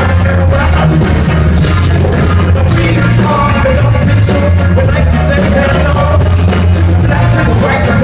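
Live band playing loudly: a heavy, steady bass line under a regular drum beat, with a vocal or lead line over it.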